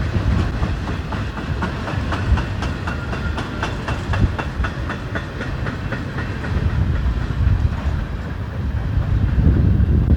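Freight train cars rolling past, their steel wheels clicking in a steady rhythm over rail joints, under a heavy rumble of wind on the microphone that grows louder near the end.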